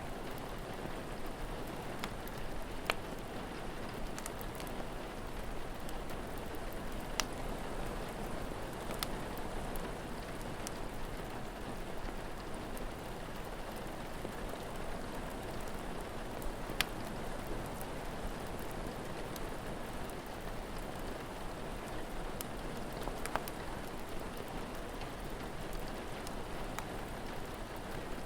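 Steady rain falling, a continuous even hiss. A few sharp pops are scattered through it, the crackle of a wood fire.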